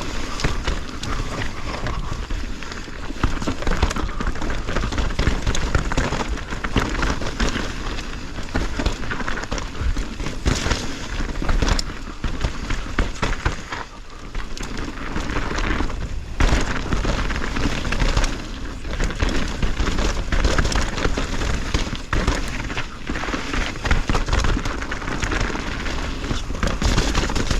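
Mountain bike descending a wet, rooty trail: continuous rough tyre and riding noise with frequent knocks and rattles as the bike hits roots and rocks.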